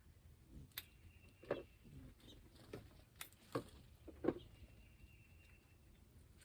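Pea pods being snapped off the vines by hand, a handful of sharp, irregular snaps with faint leaf rustling; the loudest snap comes about four seconds in.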